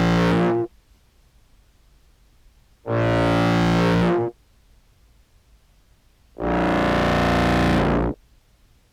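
Contrabass clarinet notes, heavily fuzz-distorted, played through a Float swell pedal and a POG2 octave pedal: one note ending about half a second in, then two more, each held for about a second and a half, with near quiet between. The swell pedal is softening the notes' attack to hide the clarinet's key clicks, which are still audible.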